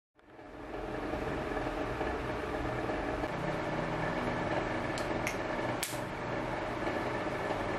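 A steady mechanical hum from a small machine, fading in over the first second, with a few light clicks about five to six seconds in.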